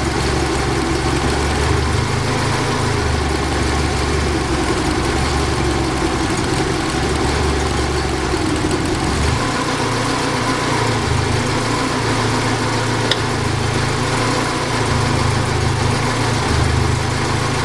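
Saab 90's four-cylinder engine idling on its freshly rebuilt Stromberg carburettor while it warms up, its low drone swelling and fading unevenly. The mixture is running lean: the engine leans on the choke to keep going.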